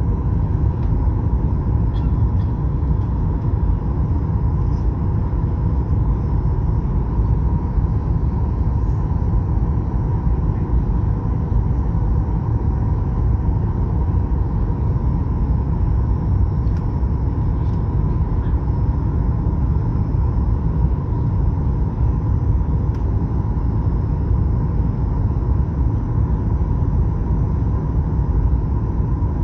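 Steady cabin noise inside a Boeing 737 MAX-8 airliner: an even low rumble with a thin steady tone running through it, unchanging throughout.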